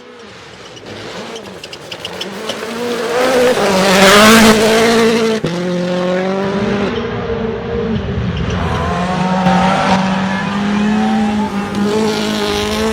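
Rally car engine at full power, building from quiet to its loudest about four seconds in along with a rush of tyre and gravel noise. The engine cuts briefly about a second later, then revs up and down repeatedly through the gears.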